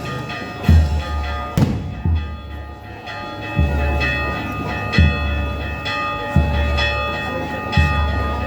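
Church bells ringing: a deep bell struck again every second or so over the overlapping hum of higher bells, their tones ringing on between strikes.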